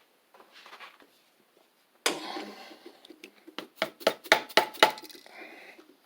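Metal engine parts and tools being handled during a small-engine teardown, clinking: a rustle about two seconds in, then a quick run of about eight sharp metallic clinks.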